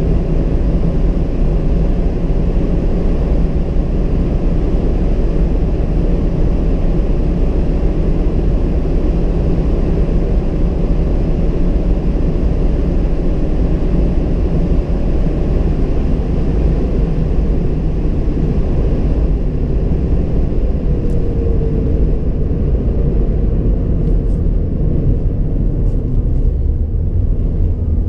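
2016 Mazda MX-5 Miata's 2.0-litre four-cylinder engine running at speed with steady road and wind noise and a strong low rumble. The higher hiss thins out about two-thirds of the way through.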